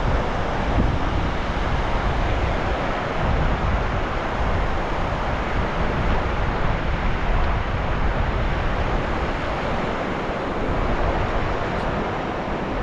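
Sea surf washing steadily, with wind buffeting the microphone as a low rumble.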